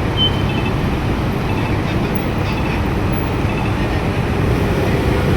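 Steady road traffic noise of engines and tyres at a busy junction. A few faint short high tones from the pedestrian crossing signal show over it in the first half.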